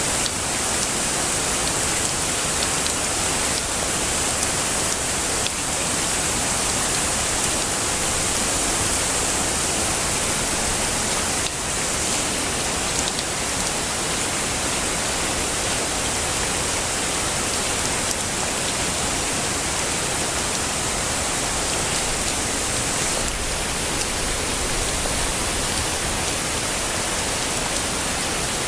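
Heavy rain falling steadily: a dense, even hiss, brightest in the high range, with no thunder.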